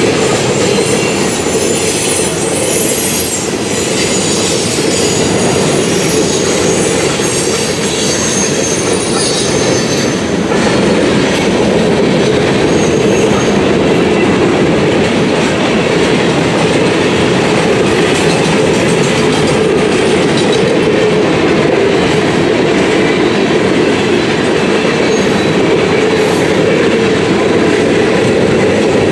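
Cars of a Norfolk Southern freight train rolling steadily past, with thin high-pitched wheel squeal during roughly the first ten seconds.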